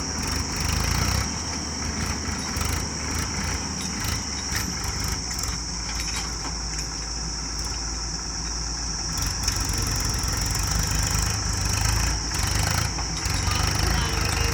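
Heavy diesel engine of a tractor or truck running steadily, with a constant high-pitched tone over the low rumble.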